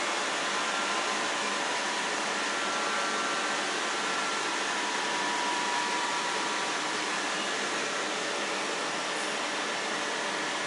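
Southern electric multiple-unit train standing at the platform, its ventilation and equipment fans running with a steady rushing hum and a faint whine.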